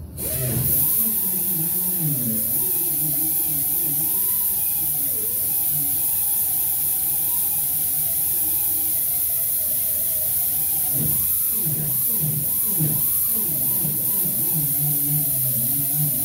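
Grinder spinning an 80-grit sanding disc against the steel body panel. It comes on suddenly, giving a loud, steady hiss with a motor tone that rises and falls as the disc is pressed on and eased off.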